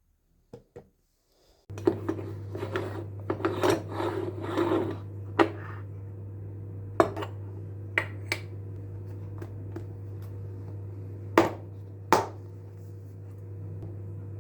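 Objects being handled and set down: sharp clicks and knocks with some rubbing and rustling, over a steady low hum that starts about two seconds in.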